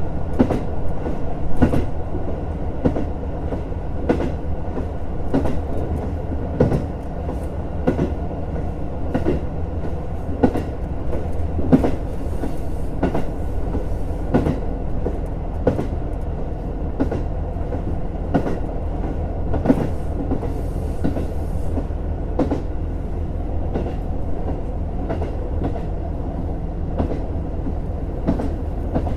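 JR Hokkaido KiHa 150 diesel railcar running along the line, heard from inside: a steady low drone from the diesel engine and running gear, with the wheels clicking repeatedly over rail joints. Two short hisses come partway through.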